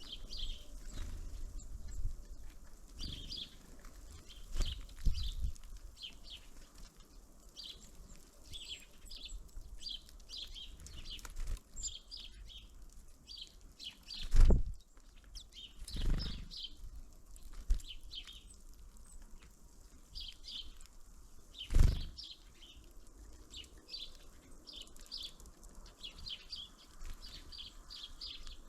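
Small birds at a winter feeder chirping with many short, high calls that run on throughout, with a few loud, low thumps close to the microphone in the second half.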